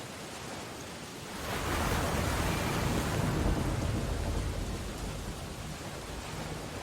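Storm ambience: a steady hiss of rain on window glass. About a second and a half in, a loud crashing surge with a deep rumble swells up and fades away over the next few seconds.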